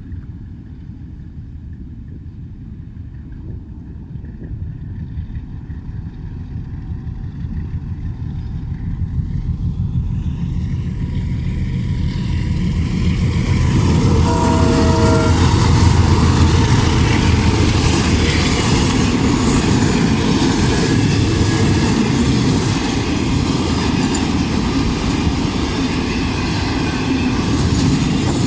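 A train approaching and passing, its rumble building steadily to a loud, noisy run of wheels on rails. A short horn sounds about halfway through.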